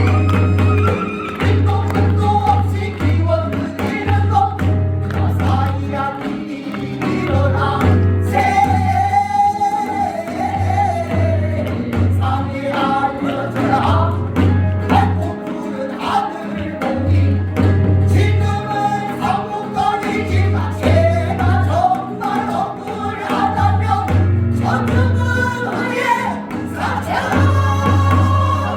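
Several voices singing together over instrumental accompaniment, with a bass line that pulses on and off.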